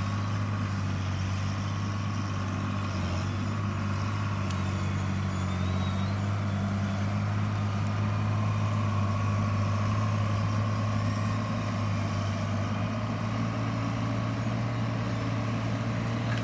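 Avant compact loader's engine running steadily at a constant speed.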